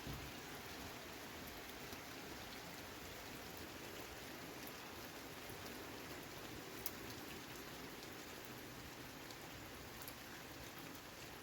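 Steady rain falling, with scattered drop ticks and one sharper tick about seven seconds in.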